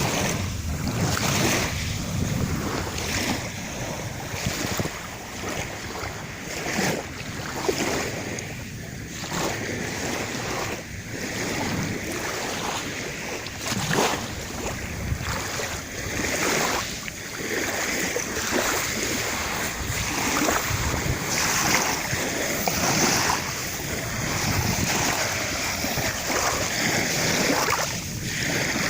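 Sea waves washing in and out in irregular swells, with wind buffeting the microphone.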